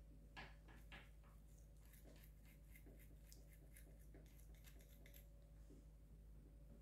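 Faint, irregular ticks and clicks of soldering work on a broken battery-terminal connection, bunched into a few seconds in the middle, over a low steady hum.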